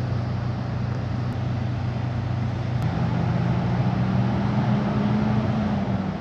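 Vehicle engines idling with a steady low hum; about three seconds in a second engine joins, its pitch rising slightly, then cuts off near the end.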